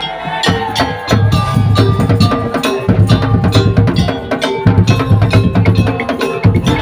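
Musik daul percussion ensemble playing live: fast wood-block and drum strikes over held melodic notes, with heavy low drumming that comes in about a second in and breaks off briefly a couple of times.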